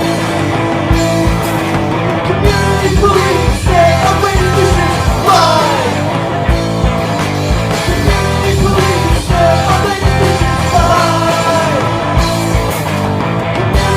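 Lo-fi punk rock demo recording: distorted electric guitars, bass and drums playing, with sung vocals coming in a few seconds in.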